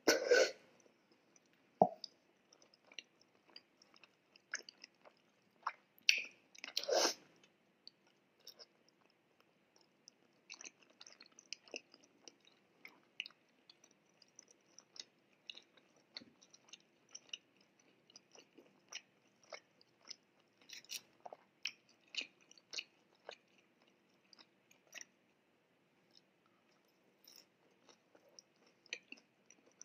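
Close-miked eating: a person biting and chewing food, with a couple of louder bites right at the start and again about six to seven seconds in, then soft, wet chewing clicks several times a second.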